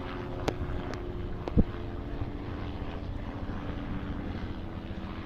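Steady engine drone: a low, even hum with a few held tones, heard from inside a vehicle. A couple of faint clicks and one brief thump about one and a half seconds in.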